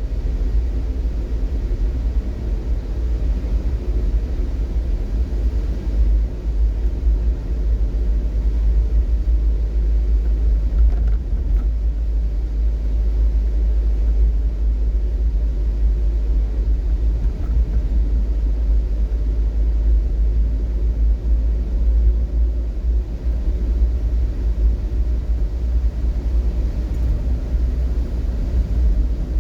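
Steady low rumble of a vehicle on the move: road and engine noise, with no distinct events.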